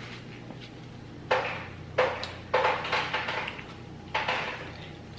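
A few short, sharp noises close to the microphone, about four over several seconds, from handling and eating boiled food in sauce. A low steady hum runs underneath.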